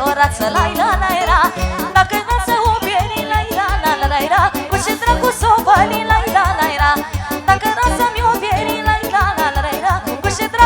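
Live Romanian party music with a steady, even beat and a fast, ornamented lead melody full of quick trills.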